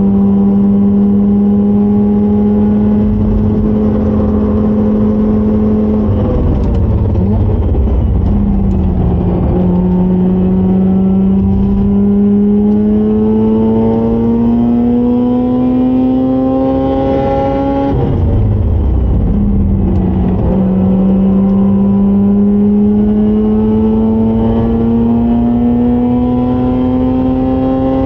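Mazda RX-8's two-rotor Wankel engine running hard at speed. The note holds steady, dips about six seconds in, then climbs slowly through a long pull, drops sharply at a gear change about eighteen seconds in, and climbs again.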